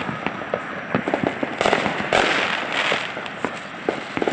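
Fireworks going off in a rapid, irregular run of sharp pops and crackles, with a few louder bangs among them.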